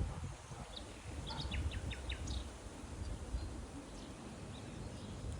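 A small bird gives a quick run of about five short chirps, each dropping in pitch, over a low steady rumble of outdoor background noise.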